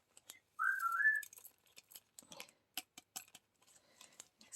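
A talking parrot's short wavering whistle, heard through an Alexa intercom speaker, about half a second in, followed by a few faint scattered clicks.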